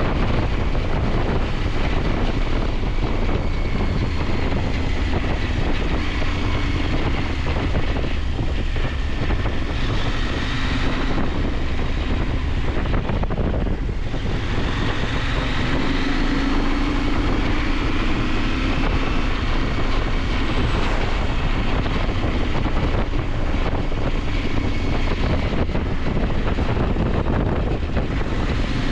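KTM 890 Adventure's parallel-twin engine running under way, its pitch rising and falling gently with the throttle, mixed with steady wind rush over the microphone.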